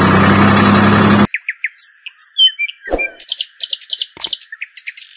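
A small motor running with a steady hum, which cuts off abruptly about a second in; then birds chirping, with many quick high tweets and short gliding calls.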